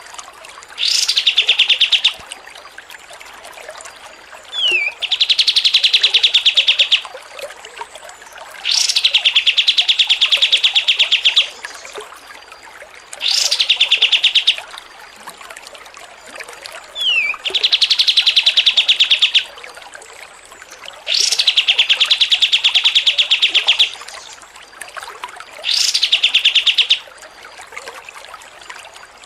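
Songbird song repeating the same phrase about every four seconds: a sharp rising note straight into a fast, even trill lasting one to two seconds, with a short falling whistle between phrases. It is a tutoring recording (masteran) for training caged songbirds.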